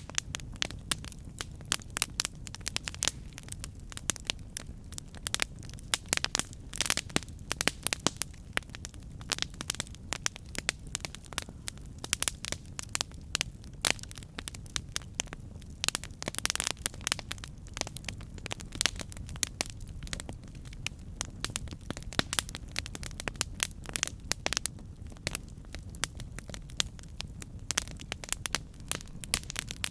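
Campfire crackling: wood burning with dense, irregular pops and snaps over a low steady rumble of the flames.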